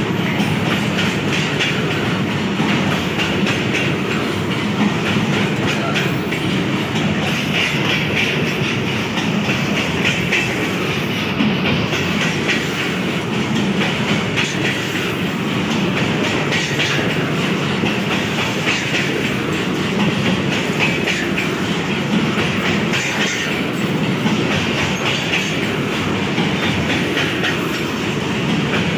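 Loaded ZBKH coal hopper wagons of a goods train passing at speed, their wheels clattering over the rail joints in a steady run of clicks over a continuous rolling rumble.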